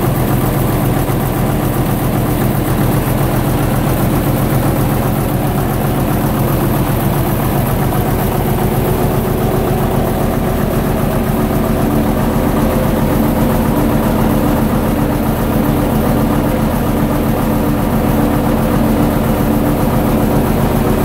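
Gardner LW diesel engine driving a generator, running steadily with an even, rapid low beat. A steady hum comes in over it about eight seconds in.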